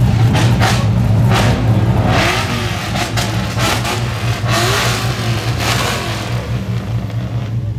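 Car engines revving hard over a steady low rumble, with loud surges in the middle that ease off near the end.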